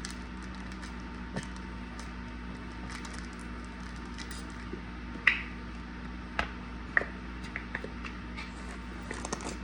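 Halved tomato slices being handled and laid onto a sub sandwich: scattered soft, wet squishes and light taps, a dozen or so at uneven intervals.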